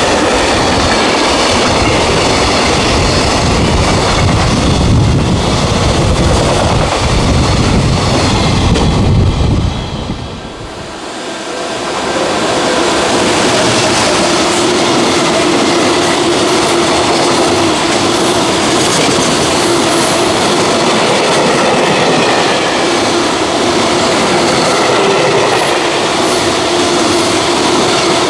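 Freight train running past at speed: a continuous rumble and rattle of wagon wheels on the rails with clickety-clack from the rail joints. About ten seconds in the sound dips briefly, then carries on steadier and less deep, with a faint steady tone running through it.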